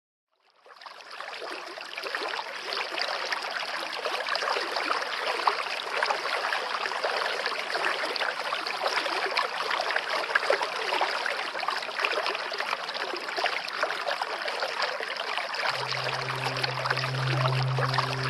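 River water flowing and babbling steadily, fading in within the first second. A low held musical note comes in near the end.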